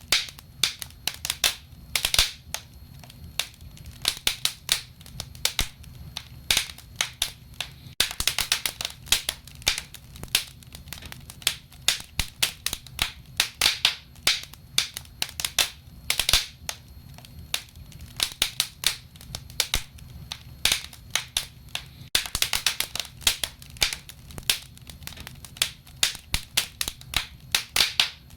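Wood fire crackling: sharp, irregular snaps and pops, often in quick clusters, over a faint low rumble of the burning logs.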